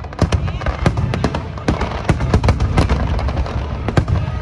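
Fireworks shells bursting in quick, irregular succession: many sharp bangs, several a second, over a continuous low rumble, with music playing underneath.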